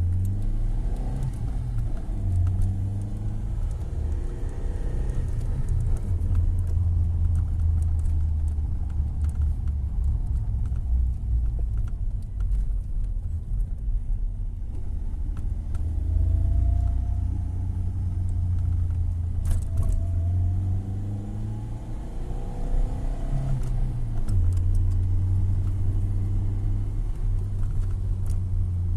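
Tofaş Doğan SL's four-cylinder engine running with a low rumble and being revved up and down twice: once in the first few seconds, then again for several seconds past the middle.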